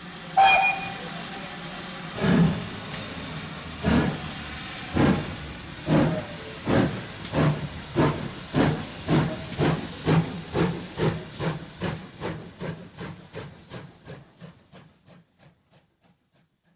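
Steam locomotive pulling away: a hiss of steam and a brief whistle, then exhaust chuffs that quicken from slow single beats to several a second while fading into the distance.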